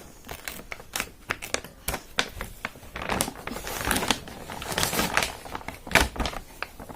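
A plastic-wrapped parcel being cut and pulled open: a run of sharp clicks and crinkling, thickening into a rustle about three seconds in, with a loud snap near six seconds.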